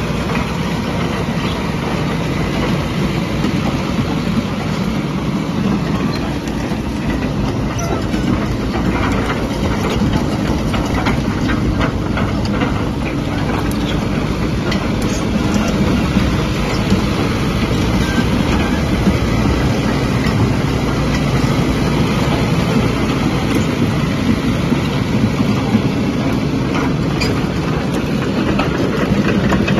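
Kubota KX185-3 excavator's diesel engine running steadily, with frequent metallic clanks and rattles.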